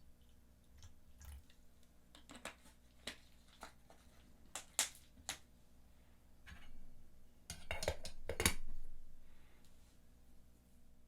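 Light clicks and small knocks of objects being handled, with a short louder burst of rasping clicks about eight seconds in.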